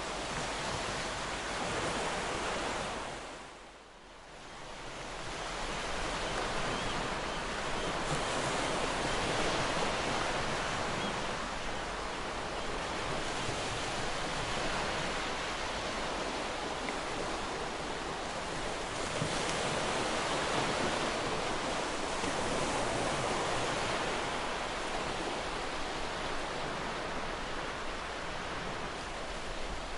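Waves breaking and washing on a beach: a continuous surf wash that swells and eases, dipping briefly to a softer level about four seconds in before building back up.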